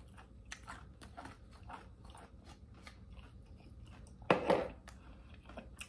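Close-up chewing of a liver-filled taco: soft wet mouth clicks and crunching, two or three a second, with one short louder mouth sound about four seconds in.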